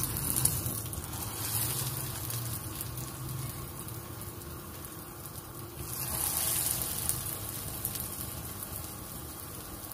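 Breadcrumb-coated chicken sticks sizzling in hot oil in a frying pan, a steady hiss that surges twice as pieces go in, once at the start and again about six seconds in. The oil is hot enough to fry.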